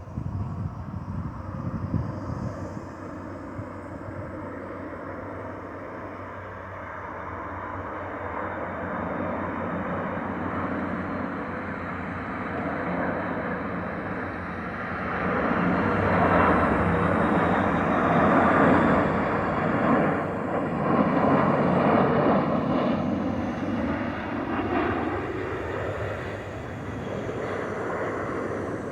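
Airbus A330-300 airliner with GE CF6-80E1 turbofans passing overhead on final approach to land. The jet noise swells to its loudest about halfway through, holds for several seconds, then fades as the aircraft moves away.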